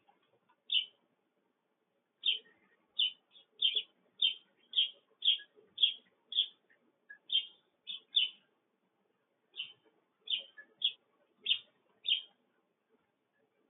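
Sparrow chirping: about twenty short, sharp chirps in an uneven series, one early and then a run from about two seconds in.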